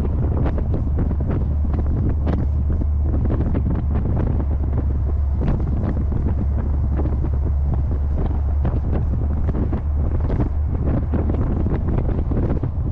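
Heavy wind buffeting the microphone of a moving car, gusting irregularly over a steady low drone from the car.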